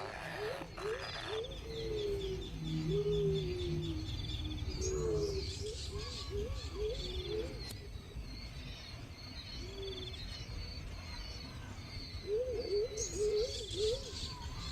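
Birds calling: a low, cooing-like call repeated in bouts of quick arched notes and longer falling notes, with faint high chirps and trills from other birds throughout.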